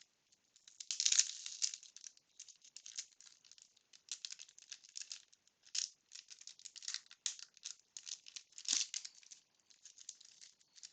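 Crinkly rustling and light clicking of a paper wax pack of baseball cards being opened and its cards being handled, in short, irregular bursts.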